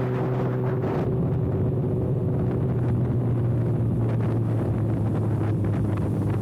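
Kawasaki ZX-6R inline-four running without its exhaust canister, held at steady revs while riding, with wind noise on the microphone. The engine note eases slightly lower about four seconds in.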